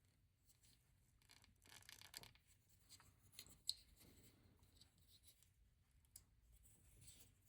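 Near silence with faint handling of LEGO plastic pieces: soft rubbing and scraping and a few small clicks, one sharper click a little past halfway.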